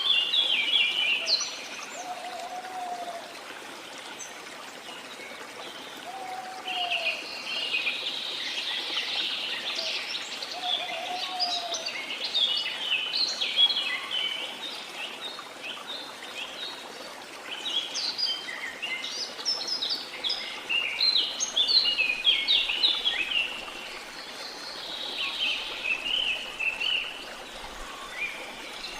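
Birds singing with rapid, clustered chirping phrases over a steady rush of flowing water, with a few short, lower whistled notes in the first dozen seconds.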